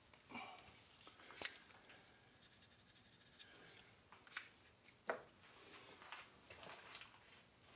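Near silence with faint, scattered clicks and short scrapes, the sharpest click about five seconds in.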